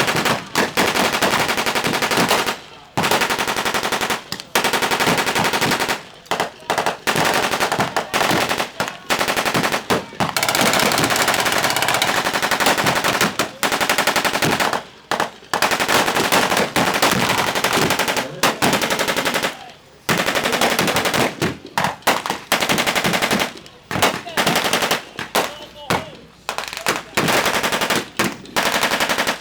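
Rapid gunfire from blank-firing weapons in a staged WWII battle, running in long dense bursts broken by a few brief pauses.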